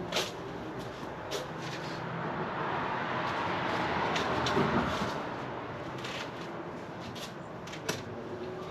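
Scattered light clicks and knocks, as of tools and parts being handled. In the middle a broad rushing noise swells up and fades away over a few seconds.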